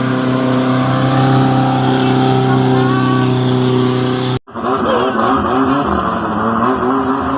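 Boat engine running steadily at a constant pitch. About four seconds in, the sound cuts off abruptly and gives way to a busier mix with pitched tones that rise and fall.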